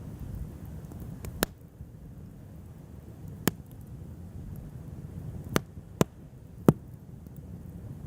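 Wood bonfire burning, with about five sharp crackling pops at irregular intervals over a low steady rumble.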